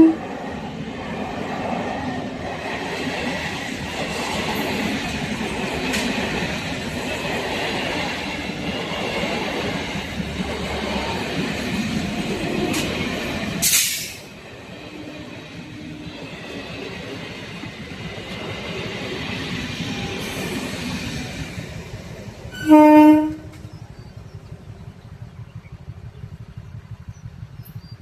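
An Indian Railways train rolling past close by, a dense rattle of wheels and coaches over the rails that stops abruptly after a sharp crack about 14 seconds in. A short, loud train horn blast sounds about 23 seconds in.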